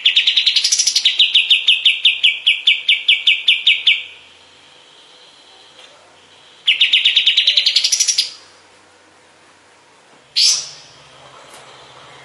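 Kapas tembak songbird calling in rapid bursts of sharp, clipped notes. The first run lasts about four seconds at about six notes a second. A shorter run rising in pitch comes near the middle, then a single sharp note about ten seconds in.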